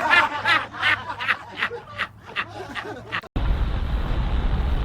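Rapid snickering laughter in short repeated bursts, cut off abruptly about three seconds in, followed by a steady low background hum and hiss.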